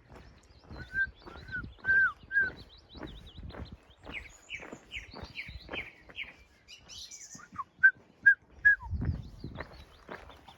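A songbird singing: a run of short arched whistled notes, then a quick falling series of notes, then a few sharp clipped notes near the end, which are the loudest sounds. Steady footsteps on a path run underneath, about two a second.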